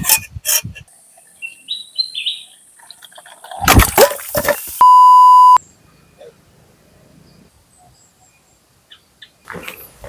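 A loud, steady electronic beep tone lasting under a second, about five seconds in, just after a short, sudden burst of noise. Before it, scattered clicks and a faint high steady whine.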